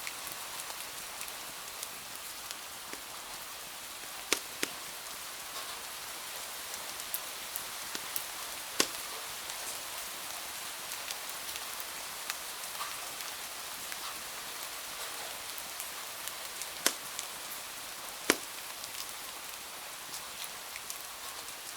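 Steady rain hiss against a window, with a wood fire crackling over it: scattered small ticks and about five louder sharp pops.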